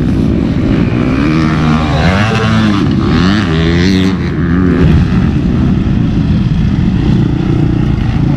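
Several motocross motorcycle engines revving, their pitch rising and falling over the first few seconds, then running more steadily.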